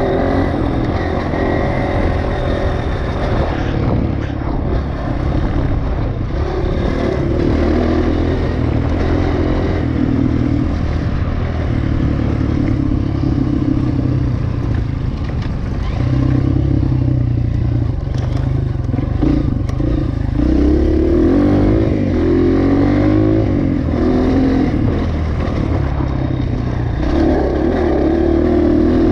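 Dirt bike engine under way on a rough trail, its pitch rising and falling repeatedly as the throttle opens and closes, with some clatter from the bike.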